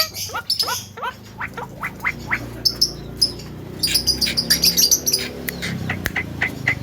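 Javan myna calling: a quick series of short sweeping whistled notes, with a stretch of harsh, raspy squawks in the middle.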